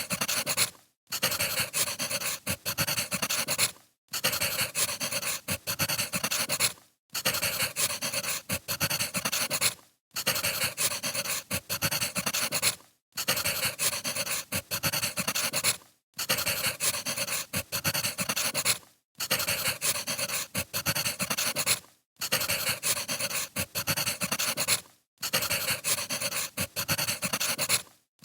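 Wood fire crackling, a short recording looped with a brief dropout about every three seconds.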